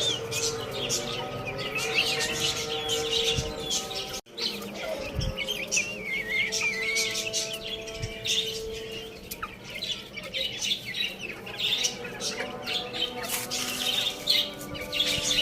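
Many small birds chirping and twittering rapidly and continuously. The sound cuts out briefly about four seconds in.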